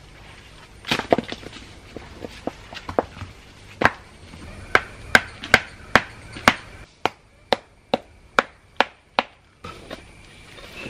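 A series of sharp knocks from stones being struck and wedged into place while a stone step is built in a stream bed. A loose cluster comes about a second in, then a steady run of about two to three strokes a second until near the end.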